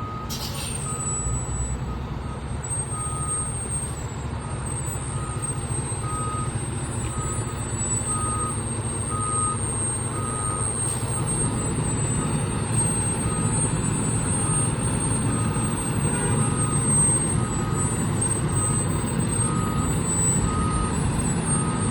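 A fire truck's backup alarm beeping about once a second while the truck's engine runs underneath with a heavy rumble. The engine grows louder about halfway through.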